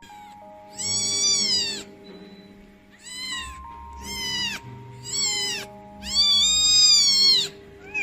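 A cat meowing five times, high-pitched, the first and last meows drawn out longer than the three short ones between them, over soft background music with held notes.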